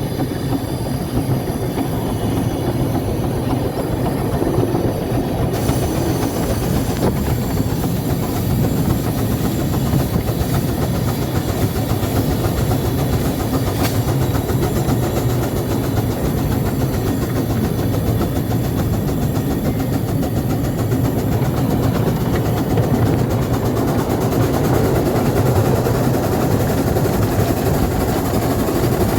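Light-railway locomotive No. 4 Norfolk Pioneer running steadily, a continuous even engine and rail noise.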